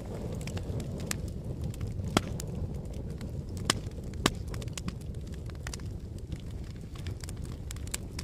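Fire crackling: a steady low rumble of flames with frequent sharp pops and snaps, the loudest about two seconds in and a couple more around four seconds in.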